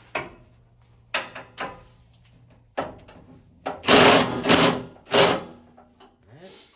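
Impact wrench rattling in short bursts, running up a bolt on a gas tank mount, after a few scattered metallic clicks.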